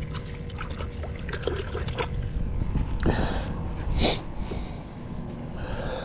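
Water splashing and trickling against the boat, with two brief splashes about three and four seconds in, over wind buffeting the microphone.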